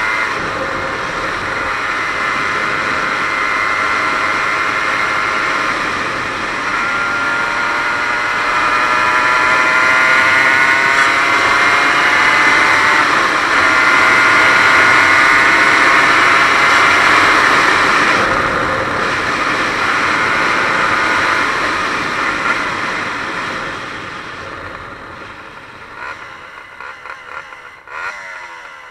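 Aprilia RS 125's single-cylinder two-stroke engine running hard under a rider, its pitch climbing and holding high, with rushing wind noise. In the last few seconds it drops off and goes quieter and uneven as the bike slows.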